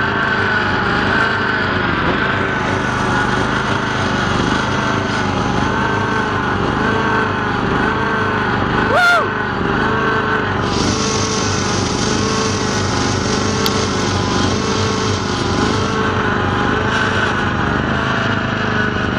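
Tractor engine running steadily under way, its pitch wavering slightly up and down in a regular cycle, with a brief rising squeal about halfway through.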